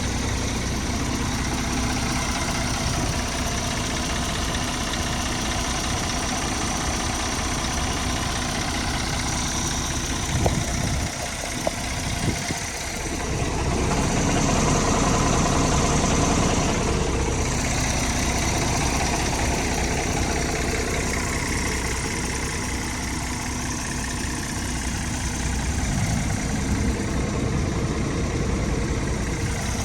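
Scania R450 tractor unit's diesel engine idling steadily. It grows louder for a few seconds about halfway through, just after a couple of light knocks.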